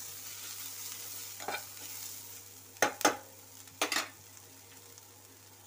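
Soya chunks and sliced onions sizzling in hot oil in a non-stick kadai while a spatula stirs them. Sharp scrapes and taps of the spatula against the pan come about a second and a half in, twice around three seconds, and near four seconds. The sizzle slowly dies down.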